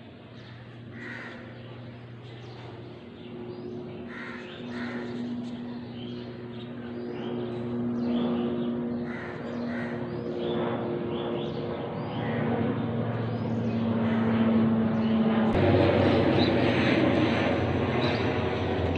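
Crows cawing repeatedly over the steady drone of an engine that grows louder, turning into a broader, louder rush near the end.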